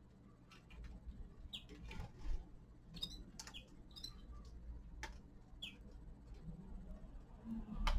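Small caged finches feeding: scattered sharp clicks and pecks of beaks on seed and perches, with a few short, high chirps mixed in.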